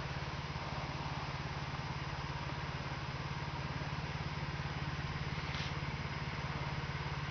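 A motor idling steadily: a low hum with a fast, even throb and no change in speed.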